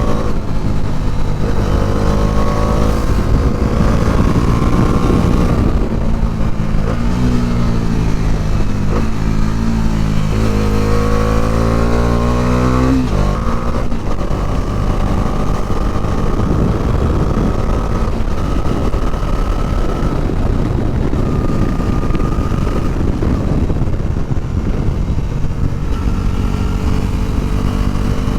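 Bajaj Dominar 400's single-cylinder engine pulling the bike along under wind rush. The revs climb steadily from about seven seconds in, then drop suddenly around thirteen seconds, as at a gear change.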